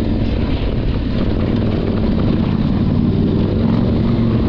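Adventure motorcycle engine running steadily, a loud, even drone without changes in pitch.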